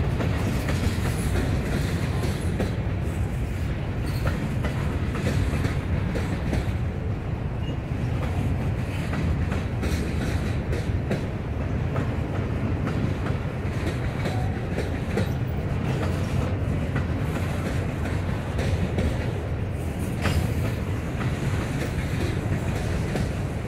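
Norfolk Southern freight train rolling past: a steady low noise of the cars on the rails, with frequent sharp clicks from the wheels.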